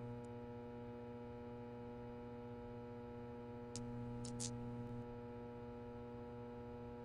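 Steady low electrical hum, with a couple of faint short clicks about four seconds in.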